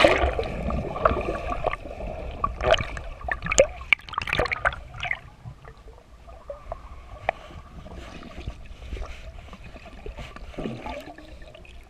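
Water splashing and gurgling, with a run of loud, irregular splashes and knocks over the first five seconds, then quieter trickling.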